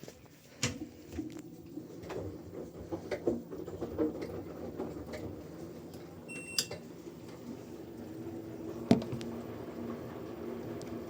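Washing machine running: a steady low hum with scattered clicks and knocks, a short high beep about six and a half seconds in, and a sharper knock about nine seconds in.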